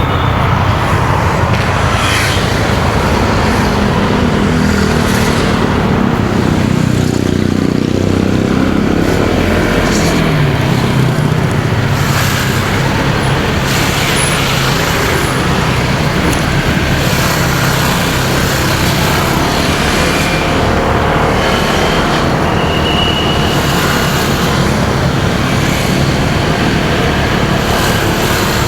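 A motorcycle engine running underway as the pitch shifts with speed, mixed with wind rush and the noise of surrounding road traffic.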